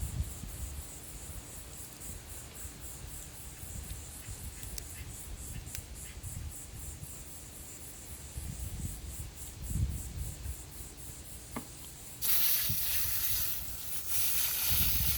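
Garden hose spraying water over a freshly cleaned blue crab: a loud steady hiss of water starting about twelve seconds in. Before it, only faint regular insect chirping and low handling noise.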